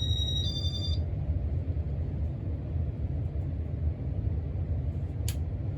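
Casablanca Stealth ceiling fan running at speed 5, its moving air giving a steady low rumble on the microphone. Right at the start comes a short two-tone electronic beep, with a sharp click just before it and another about five seconds in.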